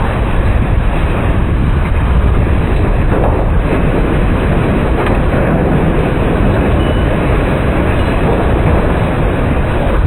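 EF0 tornado wind blowing over the microphone: a loud, steady rushing rumble, heaviest in the low end, with no letup.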